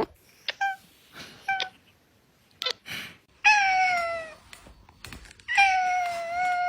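A domestic cat meowing: a few short chirps, then two long meows, the second held steady for over a second.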